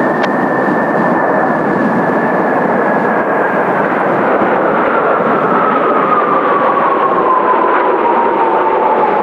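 Kawasaki T-4 jet trainers' turbofan engines rumbling as the jets fly past, with an engine whine that falls slowly and steadily in pitch as they draw away.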